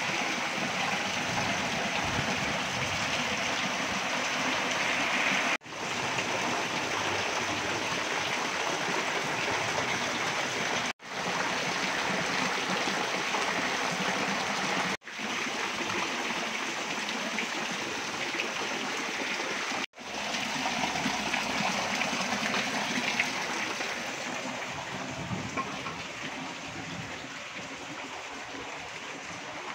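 Heavy rain pouring down, a steady hiss of drops splashing into standing water and on hard surfaces. It is broken by four brief gaps and grows quieter near the end.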